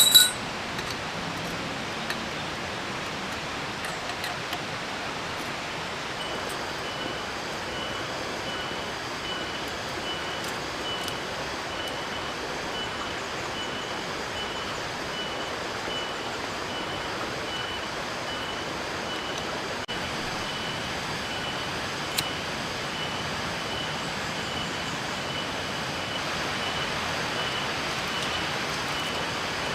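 Steady rain. From about six seconds in, a faint high peep repeats evenly, about one and a half times a second, and there is a sharp click right at the start.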